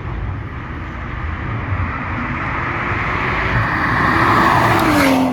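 A car approaching and driving past close by, getting louder until about five seconds in, when its engine pitch drops sharply as it goes by.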